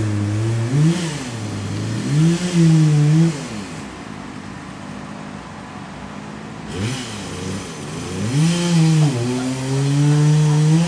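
Small two-stroke engine, most likely a chainsaw, revved up and down in repeated throttle bursts. It drops back to a lower idle for a few seconds in the middle and revs up again near the end.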